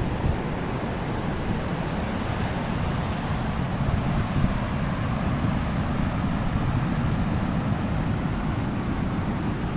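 Wind buffeting the microphone over the steady rush of big surf breaking on the beach.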